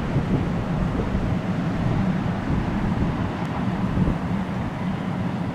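Steady low rumble of an approaching freight train still far down the line, hauled by a Siemens Vectron electric locomotive, mixed with wind buffeting the microphone.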